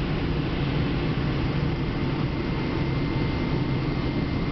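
Steady flight-deck noise of a Boeing 777-300 on final approach: a low rumble of airflow and engines under an even hiss, with a faint high steady tone.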